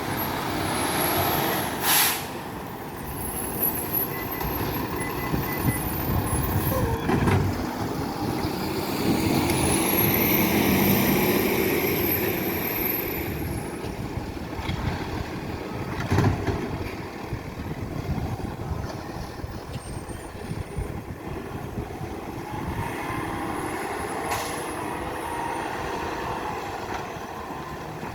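Garbage truck working at the kerb: its diesel engine runs and revs up and down, with four short sharp sounds, about 2, 7, 16 and 24 seconds in, that fit air-brake hisses or bangs of the bin-lift hydraulics.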